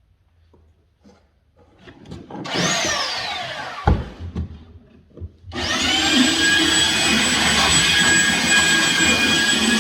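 A high-speed electric power-tool motor runs briefly and winds down, with a sharp knock. About halfway through it starts again, spins up, and runs steadily with a high whine.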